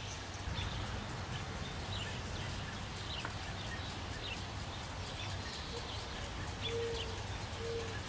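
Birds calling outdoors: many short, high, falling chirps throughout, with a few short low cooing notes near the end, over a steady low hum.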